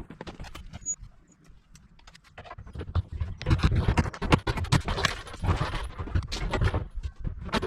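Hard plastic porta-potty seat top being worked onto the bowl: irregular knocks and clattering. It is sparse for the first two seconds or so, then comes in quick, dense strikes from about three seconds in.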